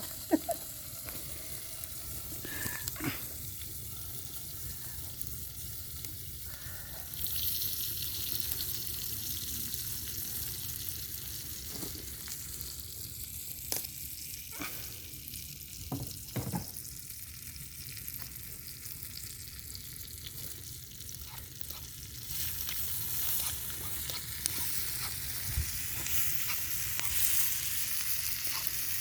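Food sizzling as it fries in a pan over a wood campfire, a steady hiss that grows louder about seven seconds in and again about twenty-two seconds in, with a few sharp knocks.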